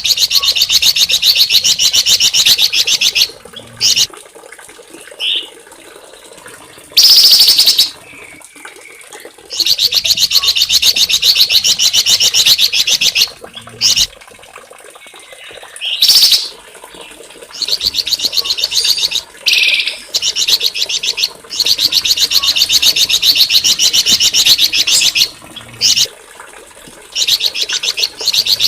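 A small songbird singing long, rapid, high-pitched trills lasting a few seconds each, broken up by short sharp single notes and brief pauses.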